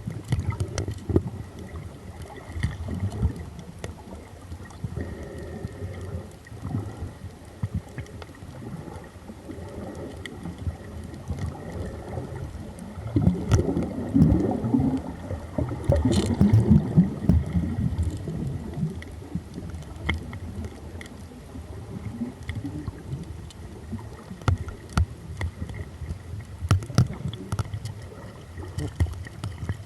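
Muffled water sloshing and gurgling with scattered clicks, as with a camera at or under the water's surface; a louder stretch of churning and bubbling about halfway through.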